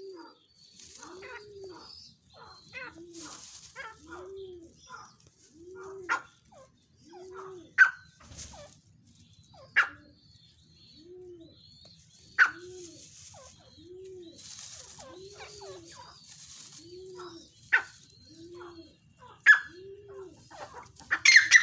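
Birds calling: a low, arching cooing note repeats evenly about once a second, with sharp loud chirps every couple of seconds and a brief flurry of chirping near the end.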